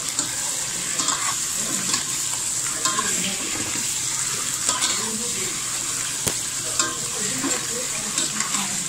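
Raw chicken pieces sizzling as they are sautéed in hot oil in a stainless steel pot, with a steady frying hiss. A utensil stirring them scrapes and knocks against the pot at irregular moments.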